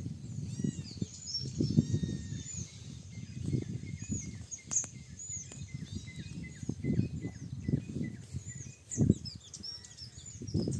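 Small birds chirping over and over: quick, high, arched notes throughout, with a run of evenly spaced lower chirps through the middle. Underneath is an uneven low rumble.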